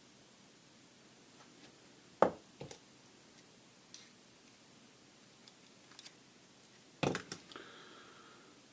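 Light clicks and knocks of small Karcher K5 pressure-washer pump parts being handled and fitted together, with quiet room tone in between. The loudest knocks come about two seconds in and again near the end, where a few follow each other quickly.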